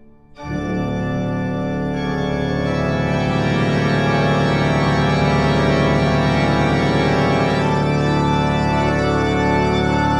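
Sustained organ chord, swelling in about half a second in and held steady with a slight wavering.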